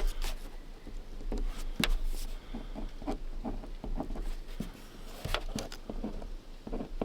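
Close, irregular small taps, clicks and paper rustles from handling and writing on a paper campsite registration form.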